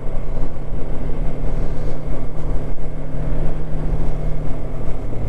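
Suzuki V-Strom 250's parallel-twin engine running at a steady cruise while the bike is ridden, with wind noise on a helmet-mounted camera's microphone.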